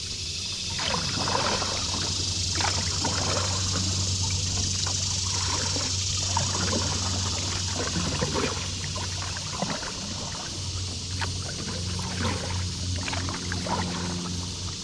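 Water splashing and dripping in short irregular splashes as a kayak is paddled along, over a steady low hum.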